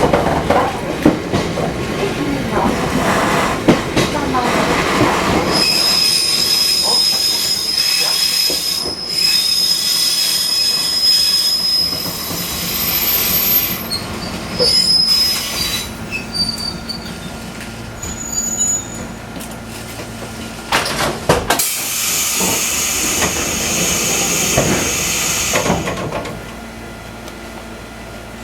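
Fukui Railway 200 series articulated railcar running, its wheels squealing high on a curve for several seconds about a fifth of the way in and again briefly near the end, with knocks from the rail joints. It grows quieter in the last couple of seconds.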